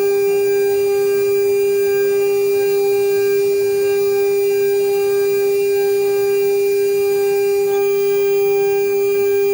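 CNC router spindle running with a steady, loud whine at one unchanging pitch.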